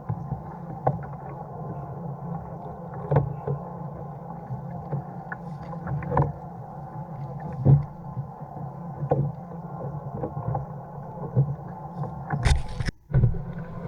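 Fishing kayak underway on the water: a steady hum with scattered short knocks and splashes. About twelve and a half seconds in, a brief loud burst cuts off into a moment of silence.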